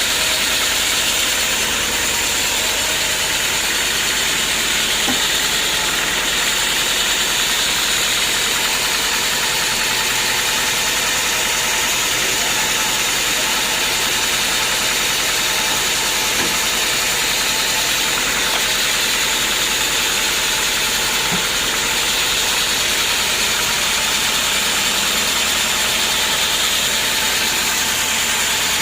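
Engine-driven homemade band sawmill running steadily, with a constant high-pitched hiss over the engine.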